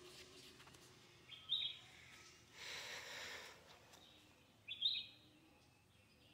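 A bird calling twice: a short, sharp chirp about one and a half seconds in and another near five seconds. A brief soft rush of noise falls in between, over a quiet outdoor background.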